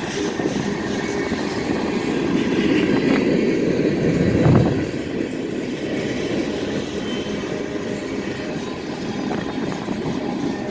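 CSX freight train rolling past, its wheels rumbling and clattering steadily on the rails, with one louder bang about four and a half seconds in.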